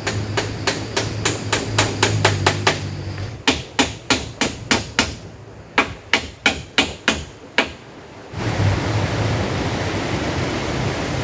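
Rapid, evenly spaced hammer blows, about three a second, over a steady rushing noise. The blows stop about three-quarters of the way through, leaving only the steady rushing noise.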